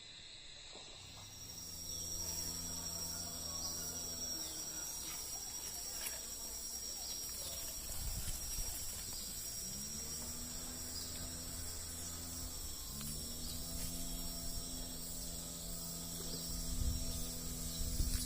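Outdoor ambience with a steady high-pitched insect drone, and underneath it a low steady hum that comes in about a second in, drops out around four seconds, and returns with a short upward glide around ten and thirteen seconds.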